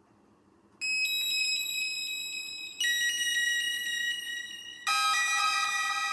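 Emergency flood alert tone sounding, starting about a second in: a loud chord of steady electronic tones that jumps to a new set of pitches every two seconds or so.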